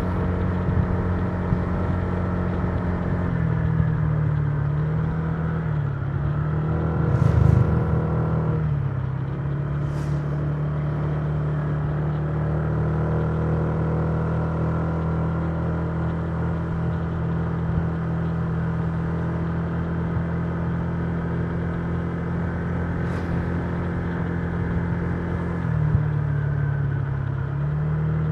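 Honda Giorno 125 scooter's single-cylinder four-stroke engine running steadily at cruising speed. Its note dips a few seconds in and climbs back, with a brief loud low rumble in the middle of the dip. It dips and recovers again near the end.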